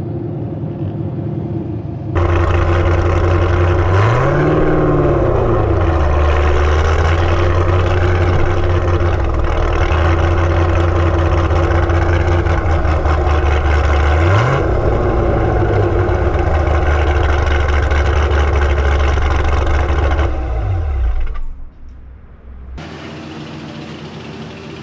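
Chevrolet Camaro ZL1's supercharged 6.2-litre V8 under way, a loud steady engine note whose revs swing up and back briefly twice, then dropping away about three-quarters through.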